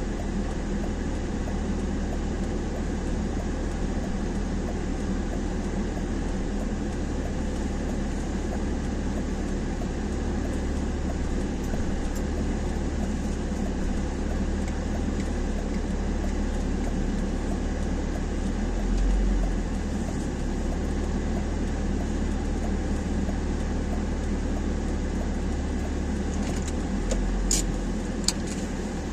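Steady low rumble of a running motor vehicle, like road and engine noise in a car, swelling briefly partway through; a few sharp clicks near the end.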